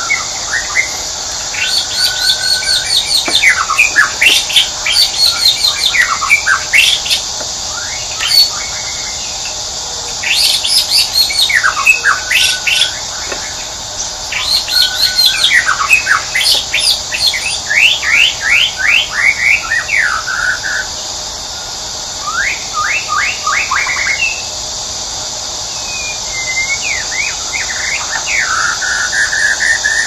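Songbirds singing: phrases of rapid, repeated chirps broken by short pauses, over a steady high hiss.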